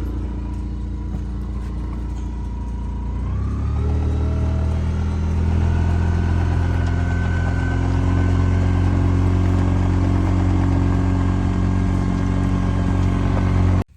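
A motor vehicle's engine running steadily, then picking up speed about three and a half seconds in and holding at the higher speed, as when driving off. It cuts off abruptly near the end.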